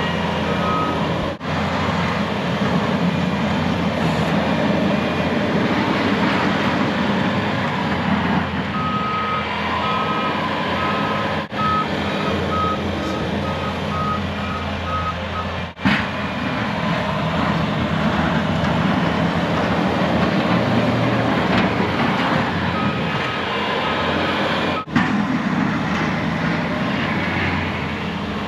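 Truck engine running steadily during snow plowing, with a reversing alarm beeping in an even series from about nine seconds in for several seconds, and again for a few beeps near the end.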